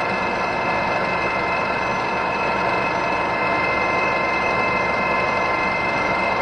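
Metal lathe running at a steady speed, a constant whine from its drive over the mechanical running noise.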